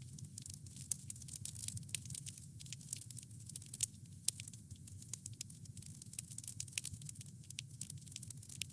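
Wood fire crackling steadily: many small sharp pops and snaps over a low steady rumble of flame, with a few louder pops among them.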